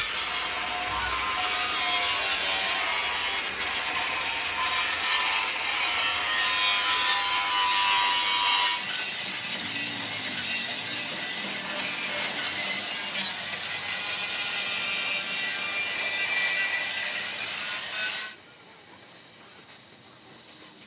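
Power tool grinding or cutting the steel of a truck chassis frame, a loud rasping hiss with a faint whine. The sound shifts about halfway through and stops suddenly near the end, leaving only quiet workshop background.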